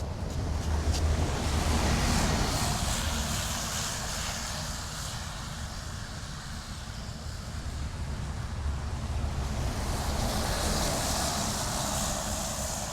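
Street traffic passing: engine and tyre noise from passing vehicles swells about two seconds in, eases, then builds again toward the end.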